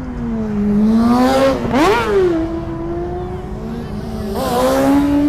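A car engine revving hard at a car meet burnout: the pitch climbs sharply to a peak about two seconds in, falls back to a steady high rev, then climbs again near the end, with a rushing noise at each climb.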